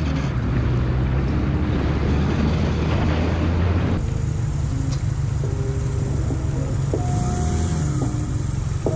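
A motor vehicle driving, its engine and road noise steady throughout. The sound changes abruptly about four seconds in, and short musical notes play over the driving noise in the second half.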